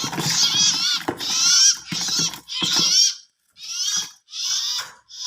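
Birds calling in a rapid series of harsh, wavering high-pitched calls, about eight in a row, each about half a second long.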